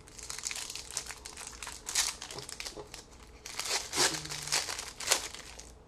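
A trading card pack wrapper crinkling as it is torn open and handled, with louder crinkles about two, four and five seconds in.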